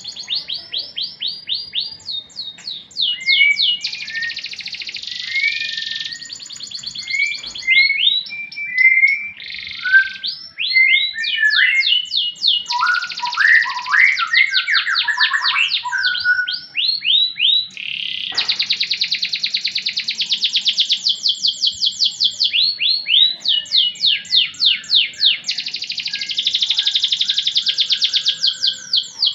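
Domestic canary singing a long, unbroken song of fast rolling trills and repeated sweeping notes, switching to a new phrase every second or two.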